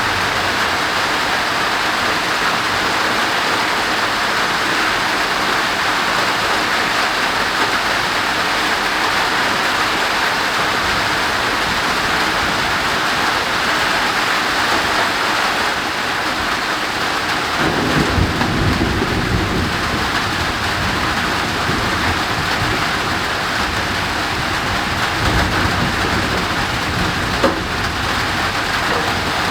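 Heavy rain drumming steadily on a roof overhead. A low rumble of thunder comes in a little past halfway, and a fainter one near the end, along with a single sharp knock.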